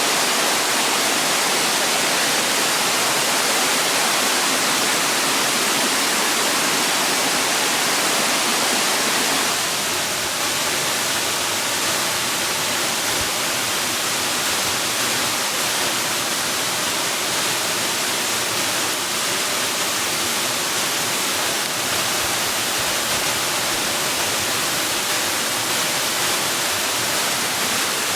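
Waterfall's rushing water, a steady hiss strongest in the upper range, its tone shifting slightly about ten seconds in.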